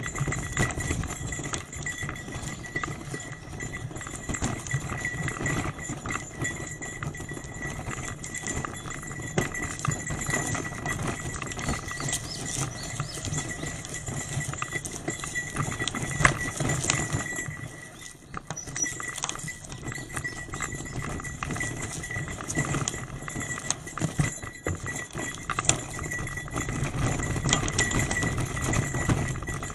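Bicycle rattling and clicking as it is ridden over a rough forest road, with a low rumble and a thin steady high tone behind it.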